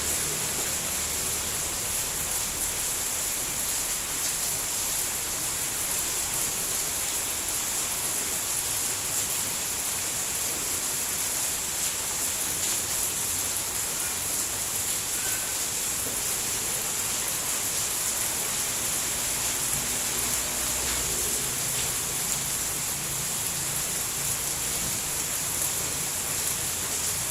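Steady rain falling: an even, unbroken hiss of many drops, brightest in the high range.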